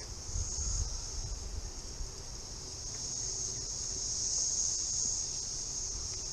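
Chorus of cicadas giving a steady high drone that swells a little in the middle.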